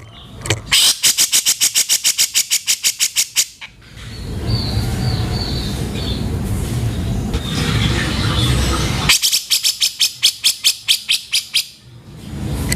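Cucak jenggot (grey-cheeked bulbul) calling in two bursts of harsh, rapid repeated notes, about ten a second. Each burst lasts about two and a half seconds, with a hissy stretch between them.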